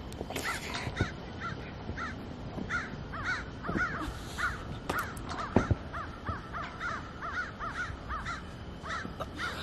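Birds calling over and over in short, harsh, arched calls, several a second, with a few dull thumps, the loudest about five and a half seconds in.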